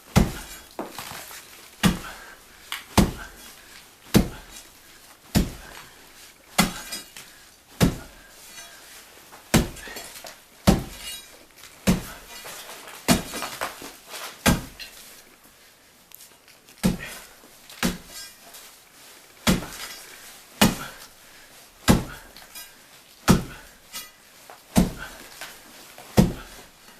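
Crowbar striking a brick-and-clay wall again and again, about one blow a second, knocking loose old plaster and brick, with a short pause around the middle.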